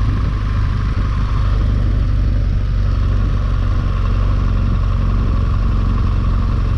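Motorcycle engine running steadily at an even pitch, with a steady rush of noise over it.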